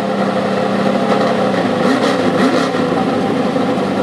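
Race car engine running steadily; the revs rise and fall a few times around the middle, then settle back.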